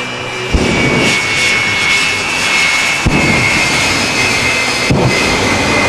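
Twin Rolls-Royce jet engines of the Aftershock jet fire truck running with a steady high whine, with three sudden afterburner bursts about half a second, three seconds and five seconds in.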